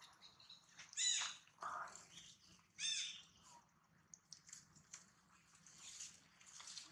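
Birds calling: two louder calls about one and three seconds in, then scattered fainter chirps.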